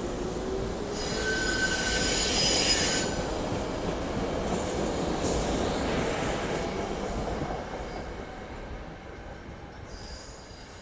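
SEPTA regional rail train's cars rolling past and away, with the steel wheels squealing in two high-pitched spells, about a second in and again around four and a half seconds in. The sound then fades as the train leaves.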